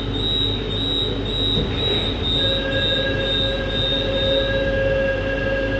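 Jakarta LRT light-rail train running, heard from inside the carriage: a steady rumble with a high, pulsing squeal from the wheels on the rail. A second, lower squeal joins it about halfway through.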